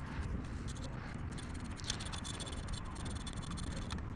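A scraper blade working old RTV sealant off an engine block's gasket sealing surface: faint, continuous light scratching with small ticks.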